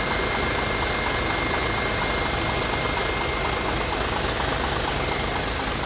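Diesel truck engine idling steadily with the air-conditioning condenser fan running, a thin high whine over it. The AC compressor is not engaged.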